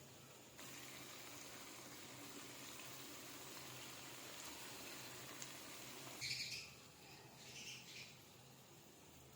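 Faint steady hiss that stops about six seconds in, followed by two short high-pitched chirps, the first louder than the second.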